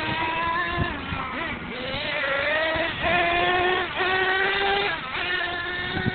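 Radio-controlled monster truck motor running under varying throttle. Its buzzing whine rises and falls in pitch, cutting back and picking up again about once a second.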